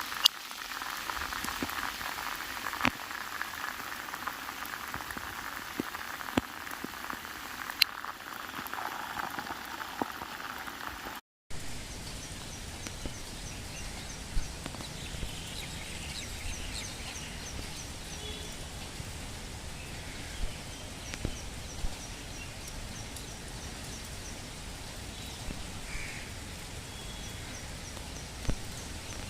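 Steady monsoon rain, with scattered sharp drip and splash ticks over the first part. After a cut about 11 seconds in, steady rain continues under short high chirps repeated in runs, like frogs or insects calling.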